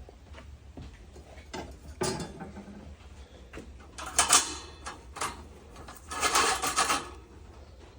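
Metal clanks and scrapes from the lid of a Kero-Sun Moonlighter kerosene heater being handled and adjusted: a knock about two seconds in, a louder clatter around four seconds, and a longer scraping rattle near the end.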